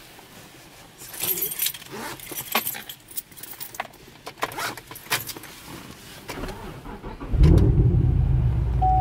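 Keys jangling and clicking in a car for several seconds, then the car's engine starts about seven seconds in and runs steadily. A steady dashboard chime tone begins just before the end.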